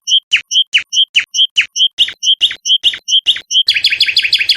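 A songbird singing a repeated phrase: a short high note alternating with a falling whistle, about five notes a second, breaking into a rapid trill near the end.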